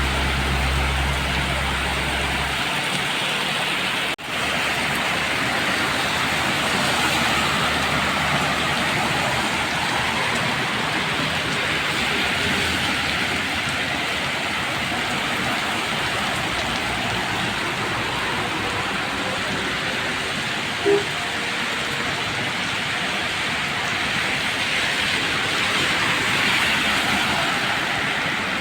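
Steady hiss of rain and of traffic on a wet road. A vehicle's low engine hum stops about two and a half seconds in, there is a brief dropout around four seconds, and a short beep comes about three quarters of the way through.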